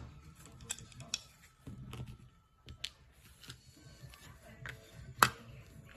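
Small clicks and knocks of a spring balancer's parts being handled during disassembly, with one sharp loud click about five seconds in.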